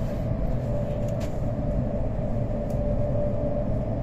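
Steady running noise inside the passenger cabin of a Whoosh high-speed train: a low rumble with a constant hum, and a couple of light clicks about a second in and near the three-quarter mark.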